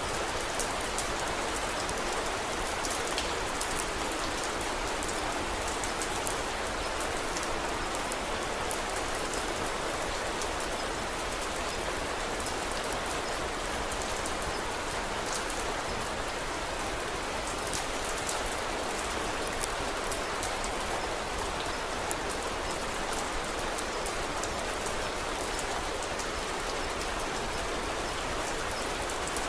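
Steady rain falling, an even hiss scattered with many small sharp ticks.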